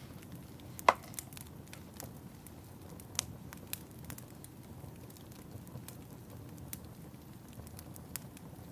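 Wood fire crackling over a low steady rumble of flames, with scattered sharp pops; the loudest pop comes about a second in.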